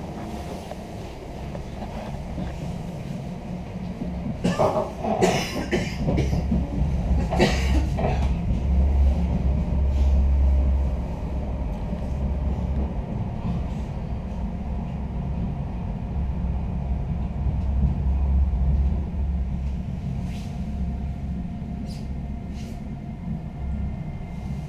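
Low rumble heard inside an Intercity passenger carriage at a station, swelling twice. A cluster of sharp knocks comes about five to eight seconds in, and a few light clicks come near the end.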